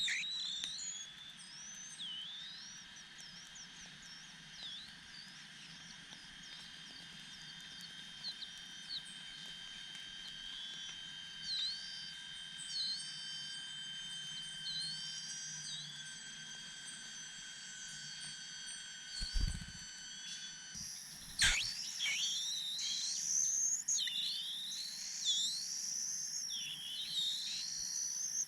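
Birds chirping in a long series of short, sweeping high calls over a steady insect drone. A dull thud comes about 19 seconds in and a sharp knock about 21 seconds in, after which the chirps come louder and faster.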